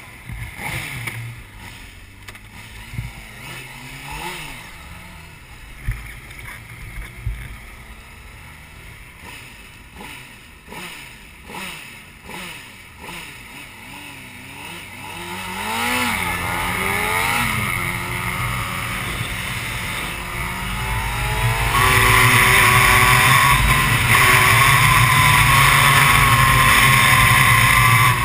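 Honda CBR600 sport bike's inline-four engine, first rising and falling in short revs at low speed, then accelerating hard about halfway through and running loud and steady at speed for the last several seconds.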